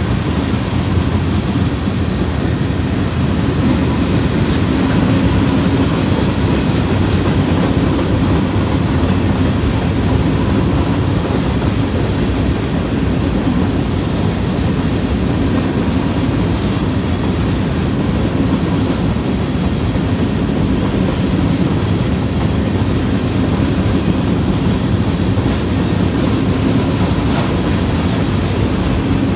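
A freight train's covered hopper and tank cars rolling past, a steady loud rumble and clatter of steel wheels on the rails.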